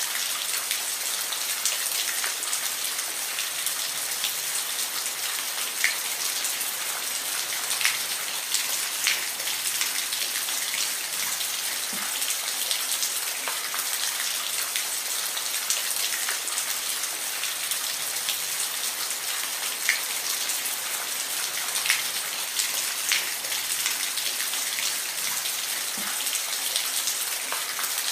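Steady rain falling, an even hiss with scattered sharper drops ticking on a hard surface.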